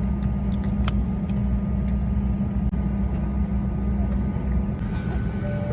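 Steady low drone of an airliner cabin before takeoff: engine and air-conditioning hum with rumble underneath, and a few faint clicks.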